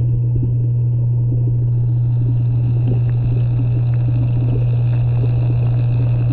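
Pond water pump running with a loud, unchanging low electric hum and a crackly wash of water noise above it.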